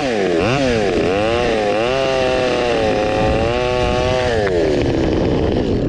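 Stihl 200T two-stroke top-handle chainsaw revving up and down in quick swings, then holding at high revs for a couple of seconds before dropping back to a lower speed near the end.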